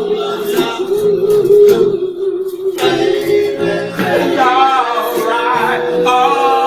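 Male a cappella soul vocal group singing close harmony: one voice holds a long low note while the others sing harmonies above it with vibrato.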